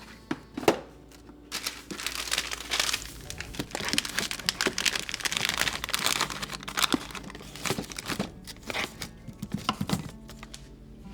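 Packaging crinkling as it is handled, a dense crackly rustle that starts about a second and a half in and dies down near the end, after a few sharp clicks.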